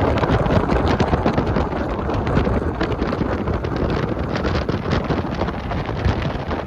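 Heavy wind buffeting the microphone on a moving motorcycle, a loud, steady rushing with constant flutter, with the bike's running and road noise beneath it.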